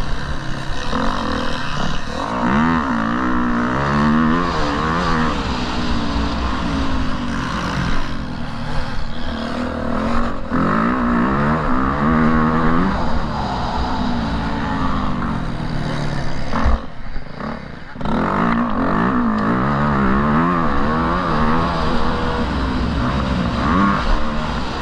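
Motocross bike engine revving up and falling back again and again as it is ridden, with low wind rumble. About two-thirds through there is a knock and the sound drops for about a second before the engine picks up again.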